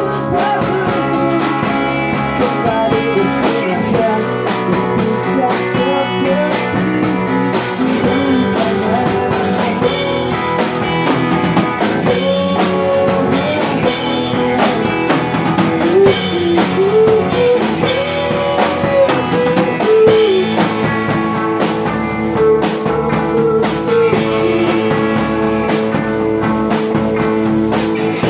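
Pop-rock band music with a drum kit and guitars, playing steadily.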